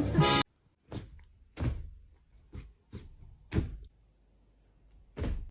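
Music cuts off about half a second in, followed by a series of about six irregular, separate thumps, like knocks in a small room.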